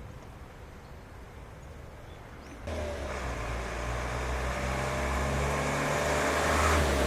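Diesel locomotive engine running, starting abruptly about two and a half seconds in and growing steadily louder.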